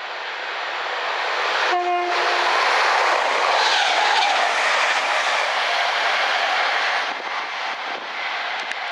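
A mainline train sounds a short horn blast on one note about two seconds in, then passes close by, its rushing wheel and rail noise swelling and falling away after about seven seconds.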